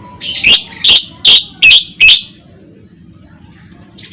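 Lovebird calling: five loud, harsh calls about two a second, then a pause of about a second and a half before quick, high chirps start again near the end.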